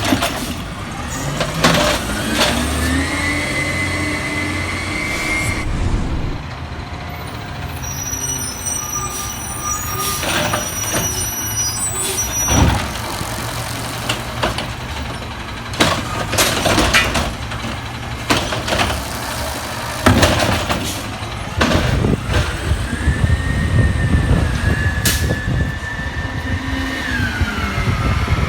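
Peterbilt 320 garbage truck working: the engine revs with a rising whine that levels off near the start and again near the end, and several sharp bangs come in between.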